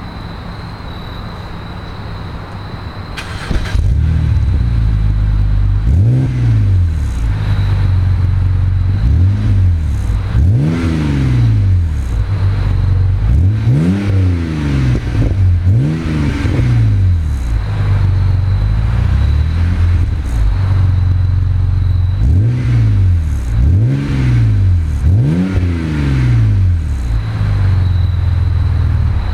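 2007 BMW 530xi's straight-six engine through a Magnaflow aftermarket exhaust, getting much louder about three seconds in, then blipped about ten times, each rev rising and falling quickly back to idle.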